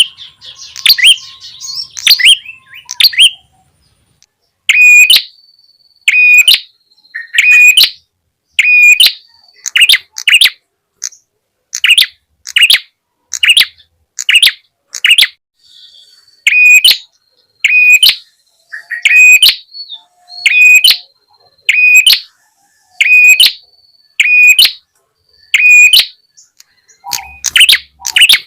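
Lure recording of prenjak tamu calls: a sharp, high chip note repeated about once a second, with denser chattering in the first few seconds.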